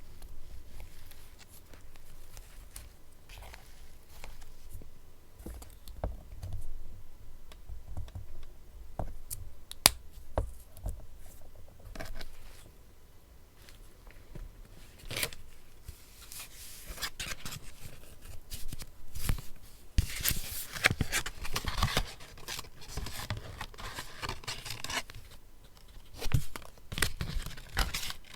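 Paper being handled and torn, with scattered small taps and clicks and a denser stretch of rustling and tearing a little past the middle.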